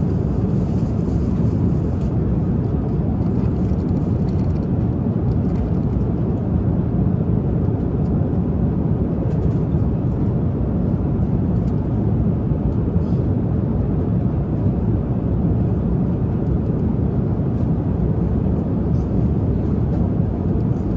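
Airliner cabin noise in cruise: a steady, even low rumble and rush of jet engines and airflow, with faint light ticks now and then.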